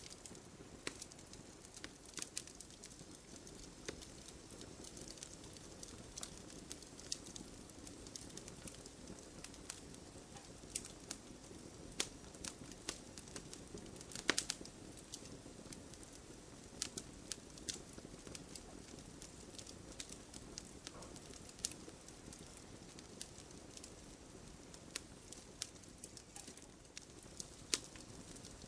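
Wood fire crackling in a fireplace: a soft steady hiss with frequent irregular sharp pops and snaps, the loudest a little past the middle.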